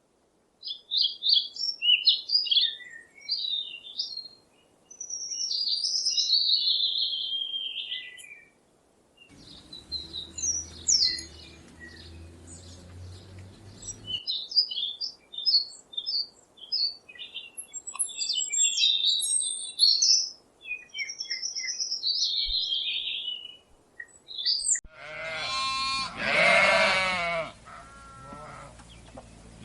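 Small songbirds chirping and twittering in quick, repeated high phrases, with a low background rumble for a few seconds in the middle. Near the end a loud, wavering bleat begins.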